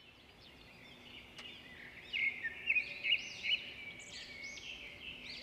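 Birds chirping: quick, arching high-pitched notes repeated over and over, loudest about two to three and a half seconds in.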